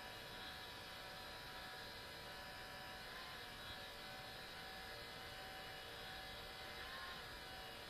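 Sony Vaio CS11S/W laptop's cooling fan running under full load: a steady whine of several tones over a hiss, wavering slightly in pitch now and then. The owner puts the noise down to a mechanical fault in the fan.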